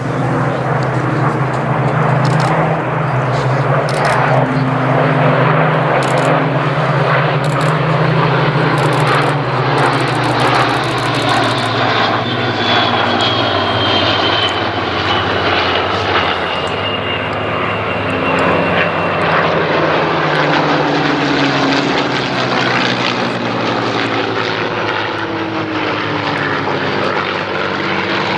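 Propeller-driven Second World War fighters in flight, their piston engines running loud and steady. The engine note shifts in pitch about halfway through and slides downward near the end as the aircraft pass.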